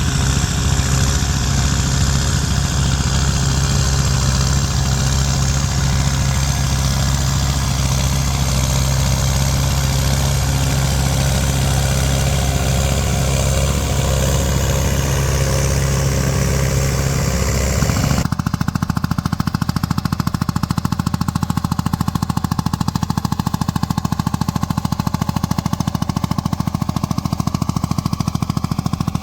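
Vintage tractor engine running steadily, then, after an abrupt change about two-thirds of the way through, an engine firing in a fast, even string of sharp pops.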